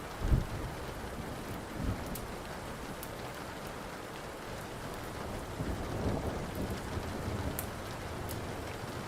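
Steady rain with thunder: a sharp low clap about a third of a second in, a weaker one near two seconds, and a longer low rumble in the second half. Faint crackling pops of a wood fire are scattered over the rain.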